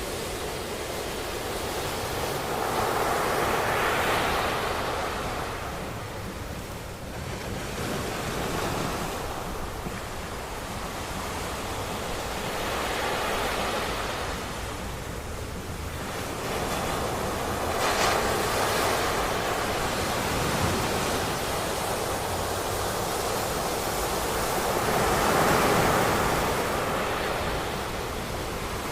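Ocean waves breaking on a beach, the surf noise swelling and easing in slow surges, with the biggest wash about a second and a half before the end.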